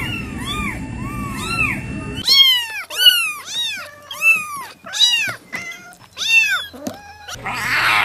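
Very young kittens mewing in quick, high-pitched cries over a low rumble, then, after a sudden change about two seconds in, kittens meowing in louder separate calls, about six of them. Near the end a longer, louder call begins, falling in pitch.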